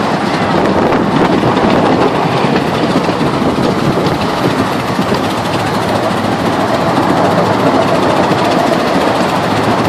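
Miniature steam train rolling along its narrow-gauge track, heard from an open passenger car: a steady, dense rattle and clatter of wheels and cars on the rails.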